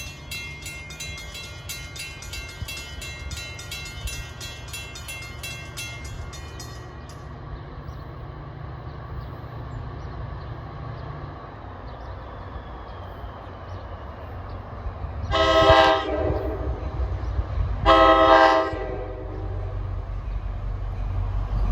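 A grade-crossing bell rings rapidly and stops about a third of the way in, over the low rumble of a diesel locomotive working hard up a grade, which fades out soon after. Near the end a locomotive horn sounds two loud chord blasts about two and a half seconds apart.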